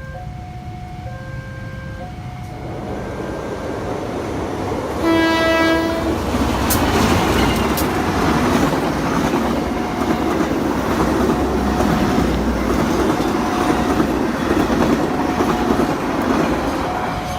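A level-crossing warning signal alternates between two tones as a train approaches. The train's horn sounds once for about a second, about five seconds in, and then the train passes with a loud, steady rush and rumble and a few sharp wheel clacks. The crossing signal keeps sounding faintly underneath.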